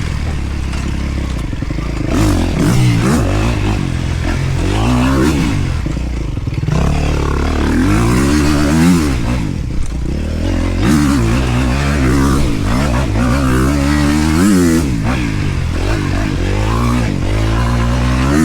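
Dirt bike engine revving up and falling back again and again as the throttle is worked on a slippery trail, with scraping and clattering along with it.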